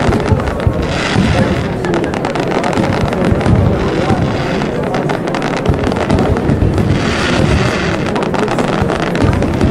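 Dense barrage of aerial fireworks: many shells bursting at once, a rapid, continuous run of bangs and crackles with no break, and crowd voices beneath.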